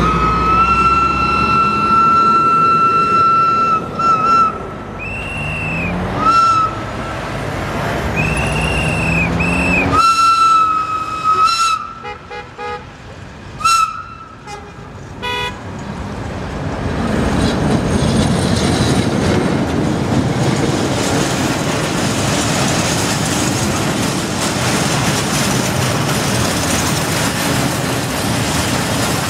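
Diesel locomotive horn sounding one long blast, then a string of shorter blasts, as the locomotive approaches. From about halfway, the steady rumble of the train's wagons rolling past over the rails.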